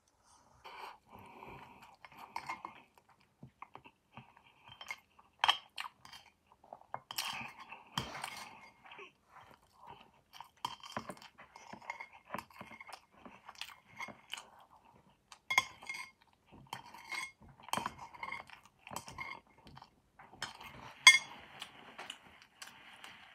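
A person chewing roast chicken close to the microphone, with wet mouth sounds and irregular sharp clicks, the loudest near the end.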